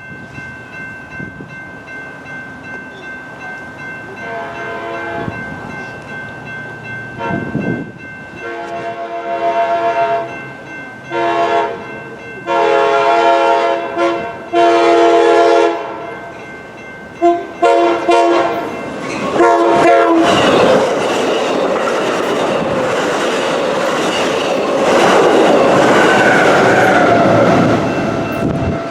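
Train horn sounding in a series of blasts, several of them long, as the train approaches. It is followed by the train passing close by with loud, steady rumbling wheel and rail noise.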